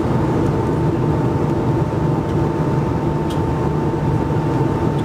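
Cabin noise of an Airbus A220-100 in flight: a steady roar from its Pratt & Whitney PW1500G geared turbofans and the airflow, with a thin, steady whine running through it.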